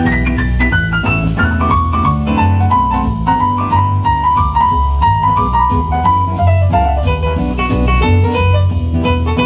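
Instrumental break in a jazz song, a piano playing a melodic solo of running single notes over a bass line.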